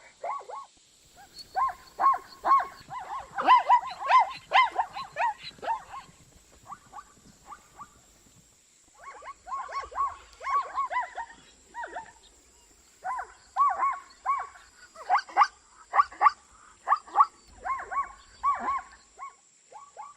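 Zebra giving its barking call, a rapid run of repeated yelping notes, in three bouts separated by pauses of a few seconds.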